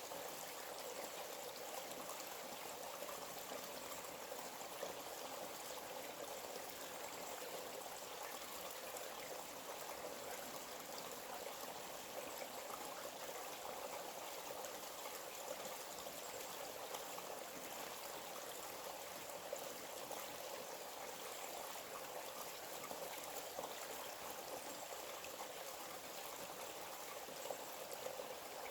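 A small forest stream trickling and babbling steadily, with no distinct events.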